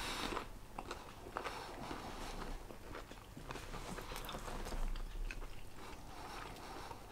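A man chewing a mouthful of coated chicken chunk, with faint scattered crunches and mouth clicks.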